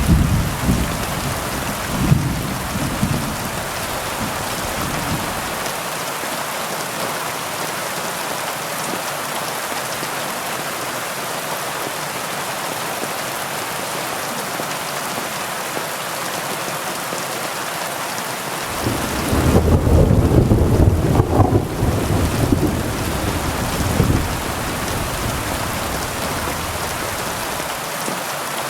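Heavy rain falling steadily, with deep rolls of thunder during the first few seconds and again about two-thirds of the way in.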